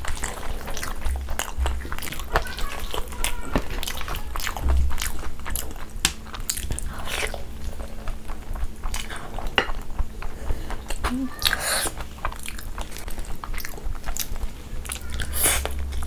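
Close-miked chewing and mouth sounds of eating cheesy macaroni mixed with crunchy crushed hot Cheetos, with a metal spoon scooping the food. Many small sharp clicks and crunches run throughout, with a few louder wet mouth noises.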